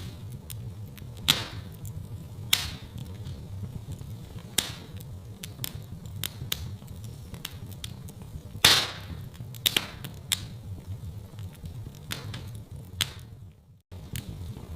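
Wood fire crackling in a fireplace: a steady low rumble of flames with irregular sharp pops and snaps, the loudest pop about nine seconds in. The sound drops out for a moment near the end.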